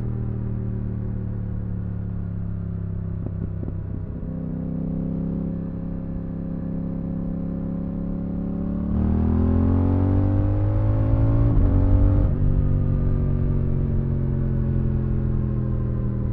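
Yamaha R7's 689 cc CP2 parallel-twin running through an IXIL Dual Hyperlow exhaust with its dB killer fitted. It holds a steady note, then about nine seconds in it pulls harder and louder with rising pitch for some three seconds, before the throttle is cut sharply and the note falls away.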